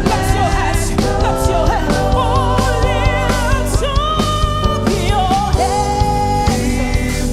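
Gospel worship song: a singer's melody with vibrato over a band, with sustained keyboard-like chords and a steady drum beat.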